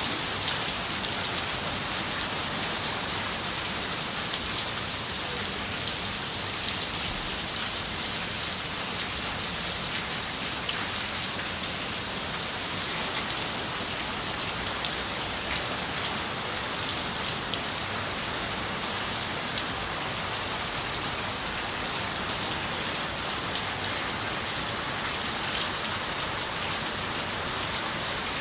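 Steady rain falling on a window, an even hiss with scattered single drops ticking sharply against the glass.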